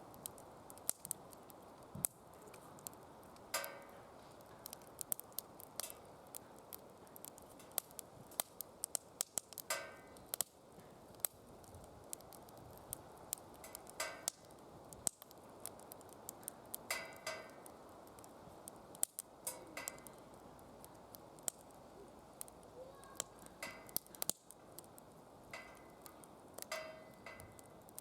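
Wood fire crackling in a DOD Mecha Moe Fire secondary-combustion fire pit: sharp snaps and pops several times a second over a low steady hiss, with a short squeaky hiss from the burning wood every few seconds.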